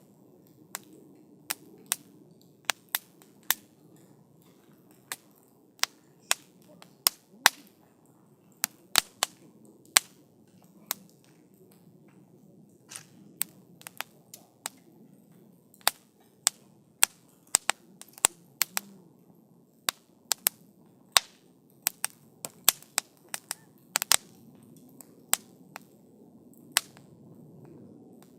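Campfire of burning wood crackling, with irregular sharp pops and snaps, often several a second, over a soft low rumble of the flames.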